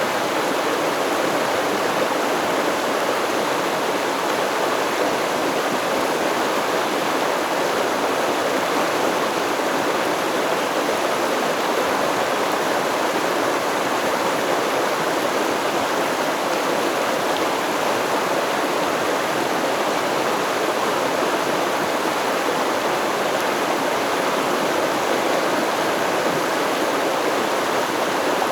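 Steady rushing and babbling of a stream flowing over rocks, an even wash of water sound with no breaks.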